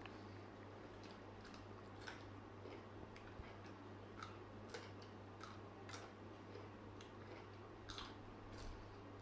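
A person chewing with the mouth close to the microphone: faint, irregular crunchy clicks, several in a burst around the middle, over a steady low hum.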